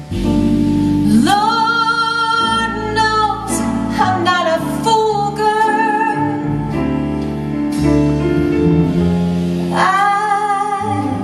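Female vocalist singing a slow jazz ballad over keyboard, bass and drums. The voice comes in about a second in with an upward slide and holds long notes with vibrato.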